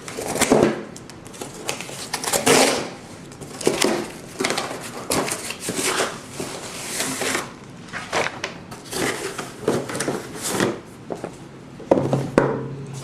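A shipping package being torn and wrestled open by hand: an irregular run of rustling, crinkling and ripping packaging with short pauses between.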